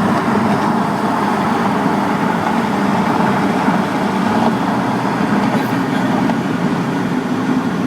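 Mitsubishi Lancer Evolution X running at steady speed, with engine and road noise heard from inside the cabin.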